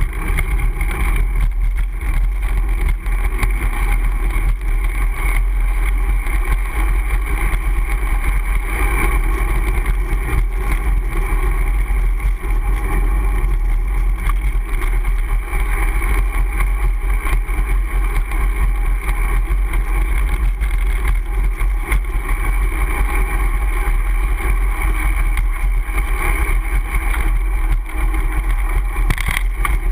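Steady, loud low rumble of wind buffeting and road vibration picked up by a GoPro HD Hero camera on a moving Brompton folding bicycle.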